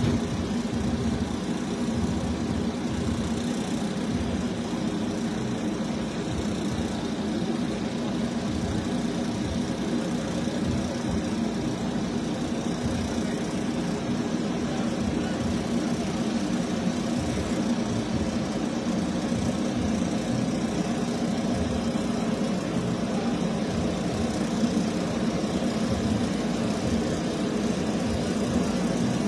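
Drag race car engine idling steadily, with an uneven pulse in its low end.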